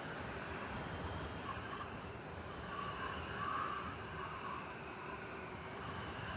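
City blizzard ambience: steady rushing wind noise with a low rumble beneath it, swelling slightly near the middle.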